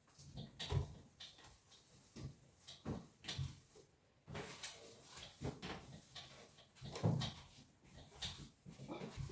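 Irregular light knocks and clatter of household things being handled, like doors or drawers opening and shutting. A dog whimpers now and then.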